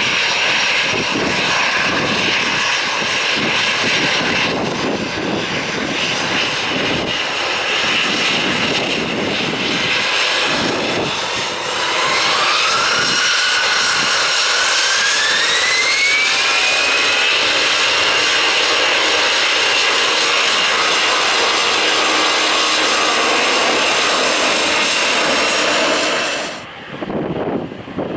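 Airbus A321's twin jet engines running, then spooling up about halfway through: a whine climbs in pitch over several seconds and settles into a louder, steady roar at takeoff thrust. The sound drops away abruptly near the end.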